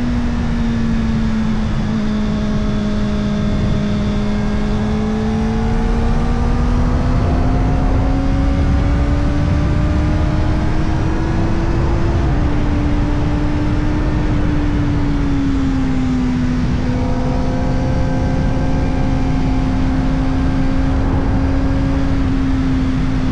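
Kawasaki Ninja ZX-4RR's 399 cc inline-four running through an Arrow Indy Race Evo titanium exhaust with the dB killer fitted, riding at steady mid revs. The engine note climbs slowly, dips briefly with a quick gear change about twelve seconds in, falls back as the throttle eases a few seconds later, then holds steady, with wind and road rush underneath.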